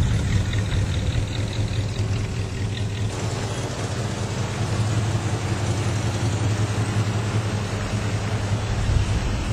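1972 Dodge Charger's engine running steadily with a deep, even low hum; a broader rushing noise joins about three seconds in.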